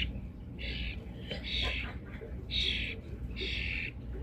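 Female European starling giving harsh, raspy begging calls, four in a row about one a second, soliciting food from her mate. Fainter small chirps sound underneath.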